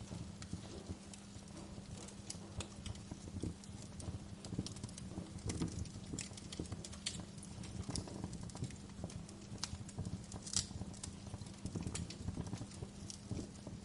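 Wood fire crackling, with irregular pops and snaps over a low steady hum.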